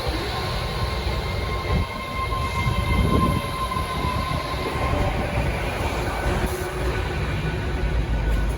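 Train moving through the station, a steady low rumble with a faint thin high tone from about one to five seconds in.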